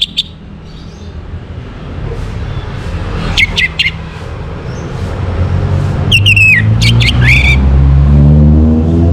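Orange-headed thrush singing two short bursts of quick whistled phrases. Underneath, a motor vehicle's engine grows louder and rises slightly in pitch through the second half, becoming the loudest sound.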